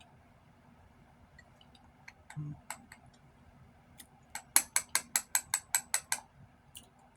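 A person chewing crunchy homemade chunks close to the microphone. A few scattered crunches come first, then a quick run of about ten sharp crunches, roughly six a second, past the middle.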